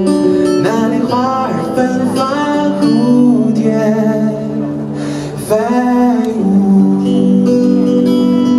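Live performance of a slow pop song: a vocalist singing a drawn-out melody over acoustic guitar.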